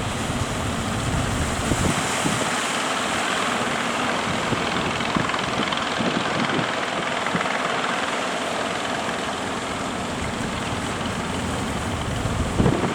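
Strong wind buffeting the microphone over the steady rush of surf, a continuous noise with heavier low rumble in the first couple of seconds.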